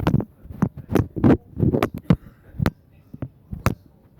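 About a dozen irregular knocks and thumps, some in quick pairs, close and loud.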